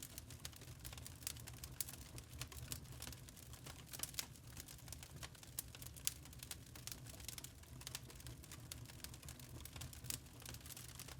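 Wood fire crackling in a fireplace: many small, irregular pops and snaps over a faint low rumble.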